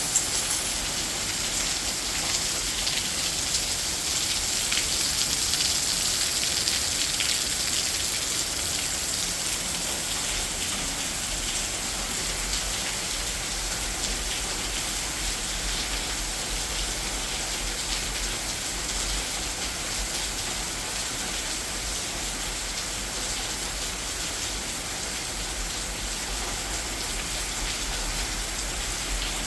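Heavy rain falling steadily, swelling a little louder for a few seconds near the start.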